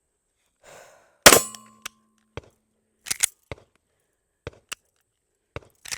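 Shots from a Canik Mete MC9L 9mm pistol: one loud shot about a second in, then a string of shorter, quieter sharp cracks at irregular intervals.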